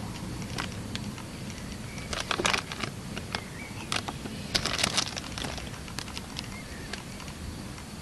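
Raindrops from a thunderstorm tapping irregularly on a nearby hard surface, in scattered sharp ticks that bunch together a couple of times, over a steady low background of rain and wind noise.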